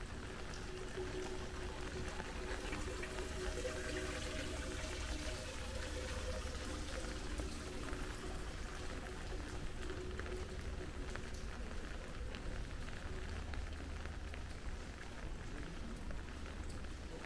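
Steady rain falling, with the fine patter of many drops hitting hard surfaces. A faint steady hum sits underneath for most of the stretch and fades out after about thirteen seconds.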